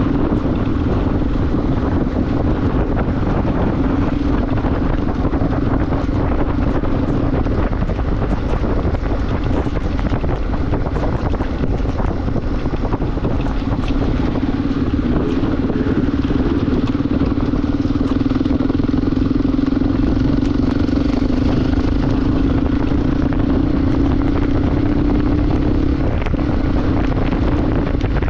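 Motorcycle engine running at a steady cruise with a constant drone, under loud wind rush over the microphone while riding.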